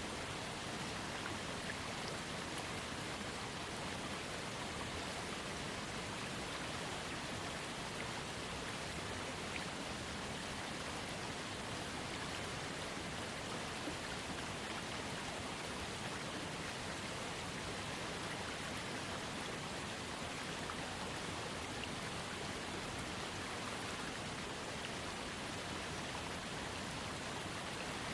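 Waterfall and trickling creek: a steady, even rush of falling and flowing water.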